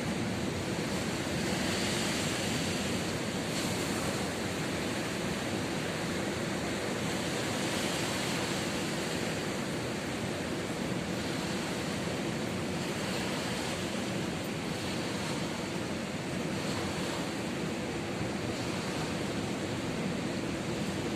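Ocean surf: waves breaking and washing up the beach as a steady rush that swells every four to five seconds.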